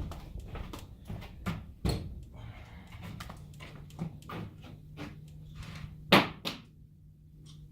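Scattered knocks and clunks, with one loud thump about six seconds in, over a faint steady low hum that stops shortly before the end.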